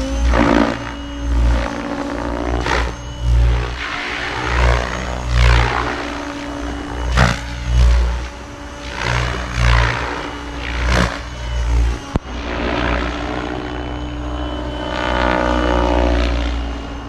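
Goosky RS7 electric RC helicopter in flight: steady hum of the rotor and motor, with the blade whoosh swelling and fading again and again, every second or two. A sharp tick a little past twelve seconds in.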